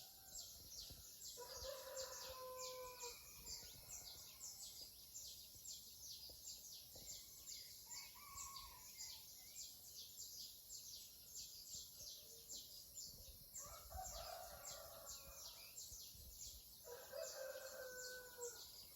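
Roosters crowing faintly at daybreak: three long crows and one shorter call, over a fast, steady high chirping of insects or birds.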